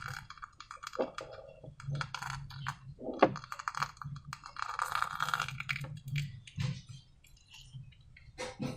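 Slime being worked by hand, a run of small sticky clicks and crackles with brief squishy bursts, thinning out near the end.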